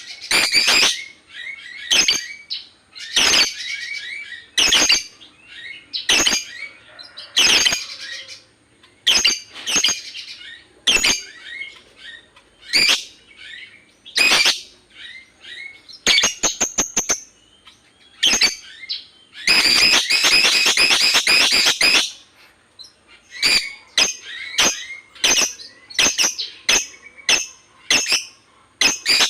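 Lovebird chirping in a string of short, sharp, high-pitched calls about once a second. A rapid run of ticking notes comes around the middle, and a long chatter of about two and a half seconds follows a few seconds later.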